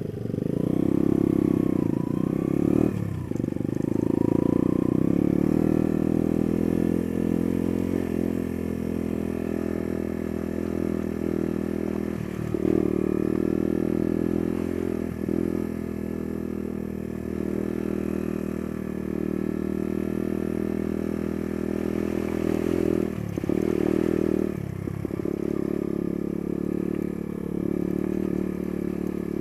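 Small single-cylinder trail or pit-bike engine running under way, mostly steady, with several brief dips in the note, about five over the stretch, where the throttle is eased or a gear is changed.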